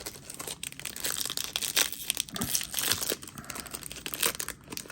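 Foil trading-card booster pack wrapper crinkling and tearing as the pack is opened, a dense run of irregular crackles.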